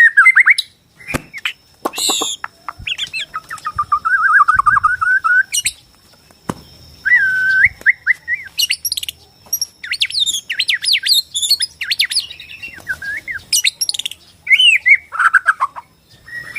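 Borneo white-rumped shama (murai batu) singing a continuous, varied song: quavering warbled trills, short clear whistles and quick high chattering notes, with brief pauses between phrases.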